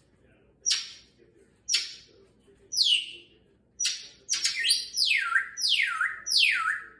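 Congo African grey parrot giving loud whistled calls, each sliding down in pitch: about one a second at first, then a quicker run of longer falling whistles near the end.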